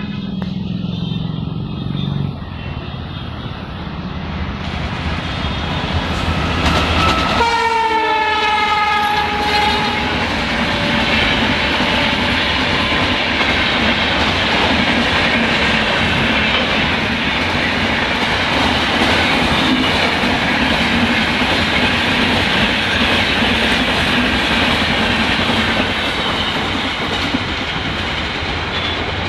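Express train passing at speed. The locomotive's horn sounds about seven seconds in, its pitch dropping as it goes by, then the coaches rush past with a steady clatter of wheels over the rail joints.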